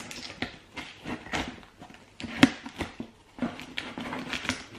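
A cardboard delivery box being unpacked: irregular rustling and knocks as protective packing material and products are handled and lifted out.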